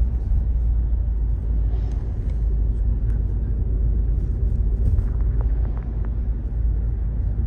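Steady low road rumble inside a moving car, with a few faint ticks about five to six seconds in.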